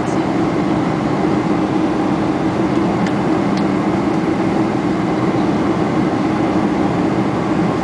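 Steady cabin noise inside a Boeing 747-400 in flight: the drone of engines and rushing air with a constant low hum.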